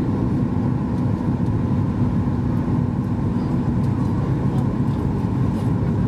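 Steady cabin rumble of a Boeing 737 MAX 8-200 heard from inside the passenger cabin: its CFM LEAP-1B engines and the airflow make an even, dense low noise with no distinct bump or change.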